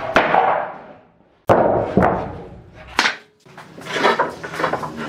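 Three sharp knocks about a second and a half apart, each dying away quickly, like pieces of wood being struck or set down hard.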